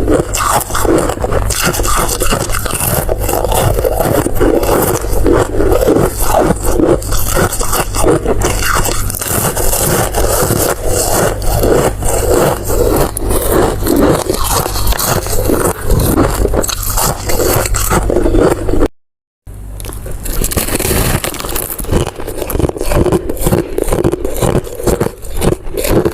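Close-miked eating sounds: continuous dense scraping and crackling over a low steady hum, cut to silence for a moment about three quarters of the way through.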